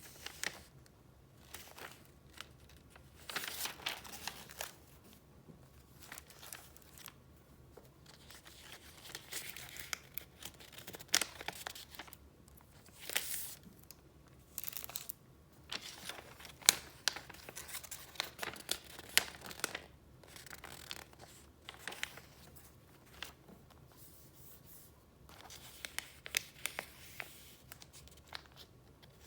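Paper being handled close up: irregular spells of rustling and crinkling as sheets and file pages are moved and turned, with sharp ticks and crackles, separated by short quiet gaps.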